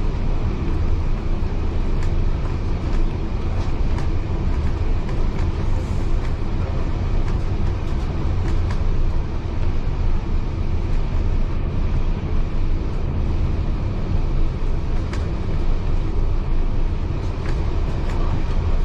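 Heritage passenger carriage running along the track, heard from inside: a steady low rumble of wheels on rail with a few scattered sharp clicks.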